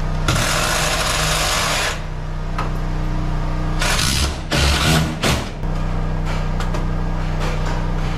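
Power tool running in short bursts over a steady low hum: one longer run near the start, then several brief ones a few seconds later.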